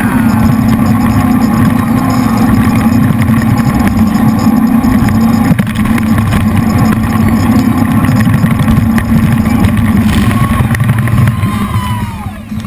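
Jet boat's three V8 engines running hard at speed: a loud, steady engine drone with rushing noise, easing off in the last second or so.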